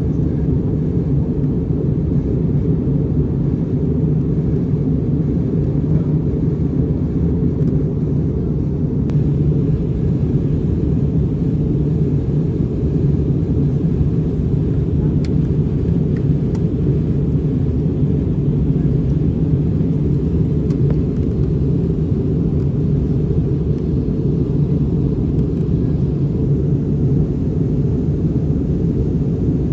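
Jet airliner noise: a steady, unchanging low rumble of engines and airflow.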